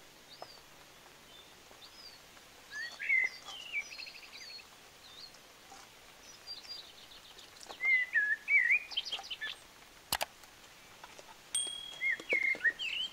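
Wild birds singing in bursts of short whistled chirps that glide up and down, busiest in the second half. A single sharp click sounds about ten seconds in.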